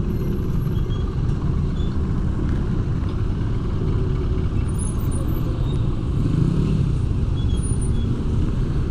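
Steady wind buffeting on the microphone and road rumble while riding a motorcycle, an even low noise with no break.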